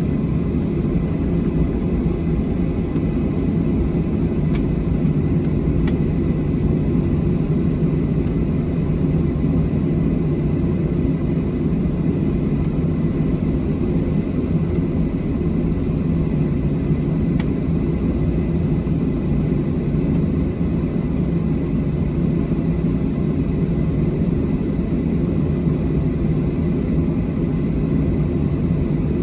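Steady, unchanging drone of a Boeing 737-700 and its jet engines, heard from inside the passenger cabin.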